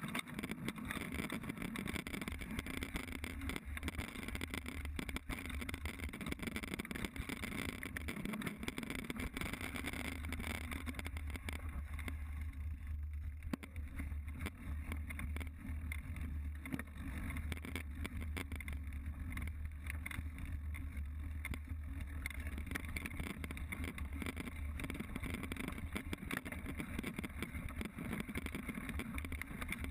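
Mountain bike ridden fast along a dirt trail, heard through a GoPro: heavy wind rumble on the microphone over a steady hiss of tyres on dirt, with frequent small knocks and rattles from the bike over rough ground.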